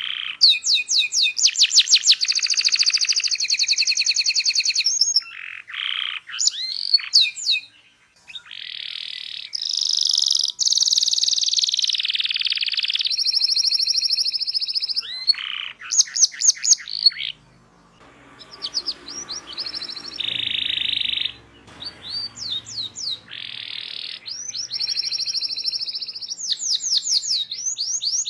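Domestic canary singing a long song of rapid rolling trills and quick chirps, with brief breaks about 8 and 17 seconds in.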